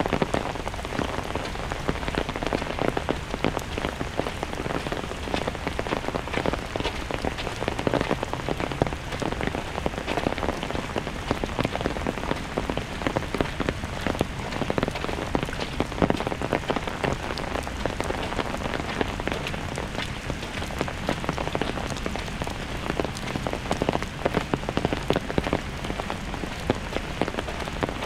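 Steady rain falling, with many individual drops striking close by as fine sharp ticks.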